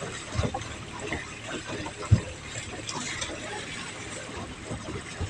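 Scattered clicks and knocks of prawn traps and their bait cans being handled, with one sharp knock about two seconds in.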